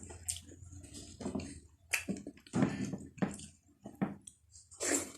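Close-up chewing and wet mouth sounds of a person eating rice, dal and pork, coming irregularly several times a second.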